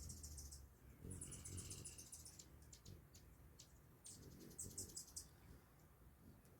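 Faint hummingbird chittering: three quick runs of rapid high chips, about a second long each, with single sharp clicks between the second and third runs.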